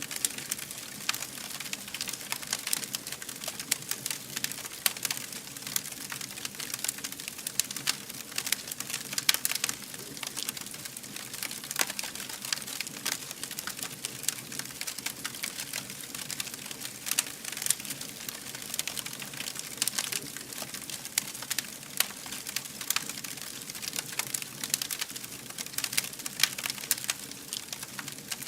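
Campfire burning, with a steady stream of irregular crackles and pops.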